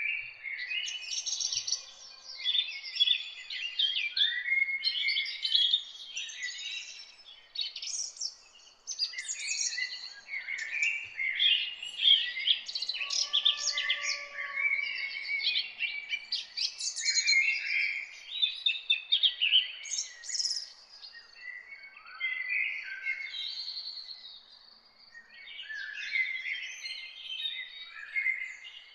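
Several birds chirping and singing at once, a dense overlapping chorus of quick high notes and trills with short lulls.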